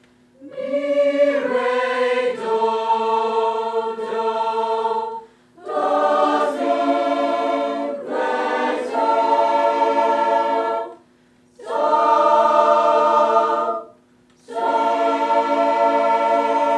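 Mixed choir singing a passage in six-part harmony on solfege syllables, unaccompanied, in four phrases with short breaks between them.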